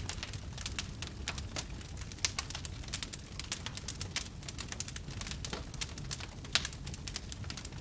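Wood fire crackling and popping with irregular sharp snaps over a low steady rumble of burning.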